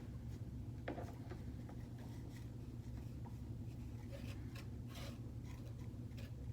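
Wooden popsicle sticks scraping as they spread nut butter onto cardboard tubes: faint, scattered scrapes and light ticks over a steady low hum.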